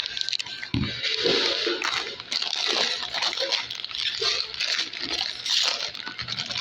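Close-up chewing of a cold cut sandwich, with irregular crunching and rustling.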